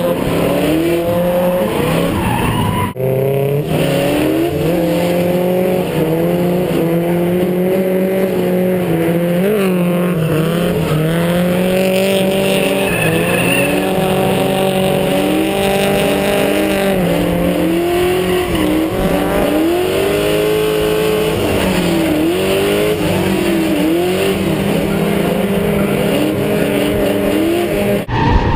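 Drift car's engine, heard from on board, revving up and down over and over as the car slides, with tyres screeching.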